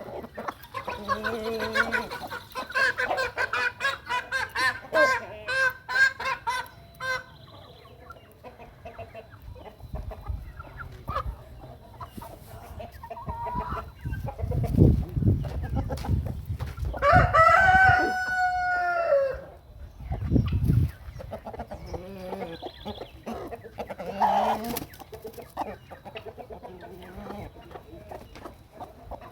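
Chickens clucking in rapid runs of short calls, with one long crow about seventeen seconds in and another call near the end. Two low rumbles come in the middle.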